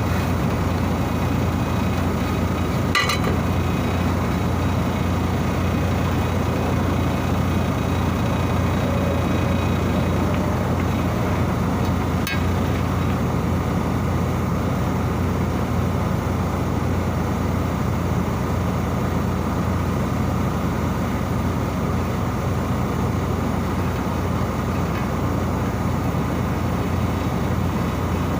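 Steady low hum of heavy machinery running, unchanging throughout, with a couple of brief metallic knocks, one about three seconds in and one about twelve seconds in.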